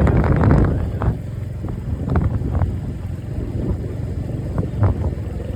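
Motorcycle running with wind buffeting the microphone. The wind rush dies down about a second in, leaving a steady low engine rumble with a few light clicks.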